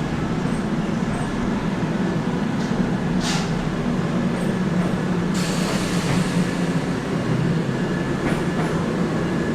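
A train at the station running with a steady low rumble, with a short hiss about three seconds in and a broader hiss starting about halfway through.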